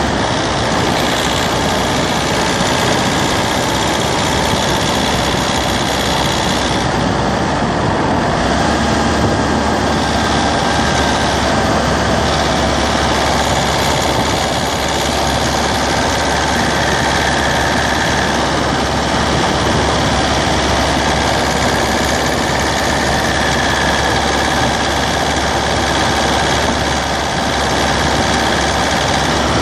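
Citroën C3's 1.4 HDi DV4TD four-cylinder turbodiesel running steadily, heard close up in the engine bay, with faint whining tones that drift slowly up and down in pitch.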